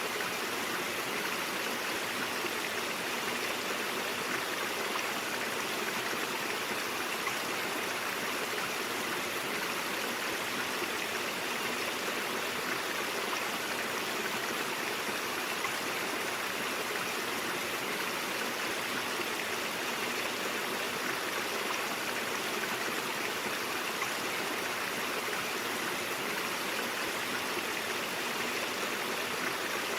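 Mountain stream flowing over rocks, a steady rushing and babbling of water.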